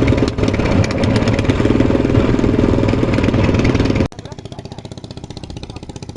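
A small engine running steadily with a fast, even firing beat. About four seconds in it drops abruptly to a much quieter level.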